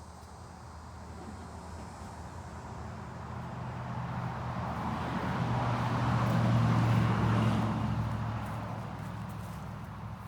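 A motor vehicle passing by: its engine and road noise grow steadily louder to a peak about two-thirds of the way through, then fade away.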